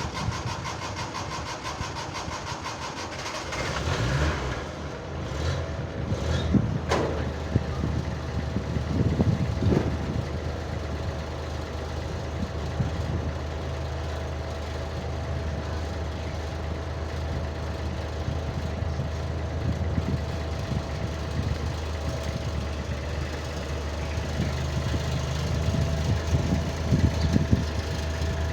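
Suzuki Mehran's 800 cc carbureted three-cylinder engine catching about four seconds in on a cold start, revving unevenly a few times under pedal pumping, then settling into a steady idle.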